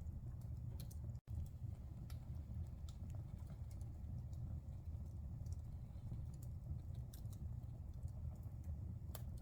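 Fire burning in a fireplace: a steady low rumble with scattered, irregular sharp crackles and pops. The sound cuts out completely for an instant about a second in.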